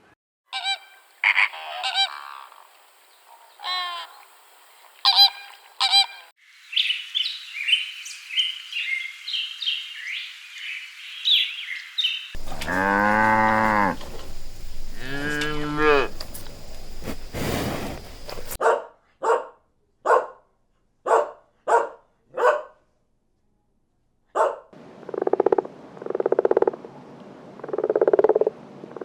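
A string of different animal calls, one short clip after another, changing abruptly every few seconds. It runs from repeated calls, through high chirping, to long pitched calls and a run of short honking calls.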